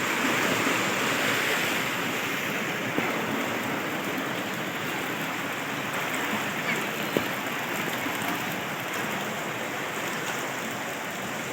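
Steady rush of flowing water, an even hiss that fades slightly over the stretch.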